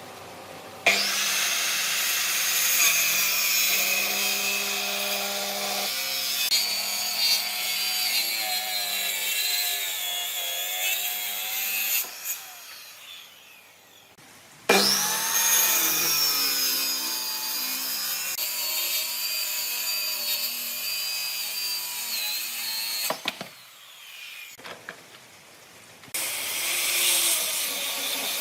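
An electric power tool working wood, running in three spells with short pauses between them; its motor pitch rises as it spins up again at about the middle, and it wavers under load.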